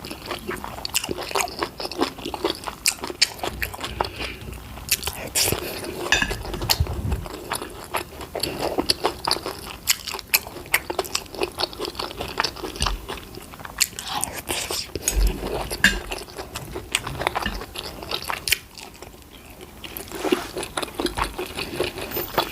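Close-miked eating: continuous chewing and biting with many small wet crunches and clicks, irregular throughout.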